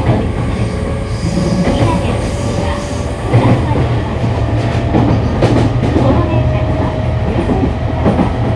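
Running sound of a JR East E217-series electric train heard from inside the car: a steady low rumble of wheels on rail with irregular clacks over rail joints. Under it a thin motor whine rises slowly in pitch as the train picks up speed.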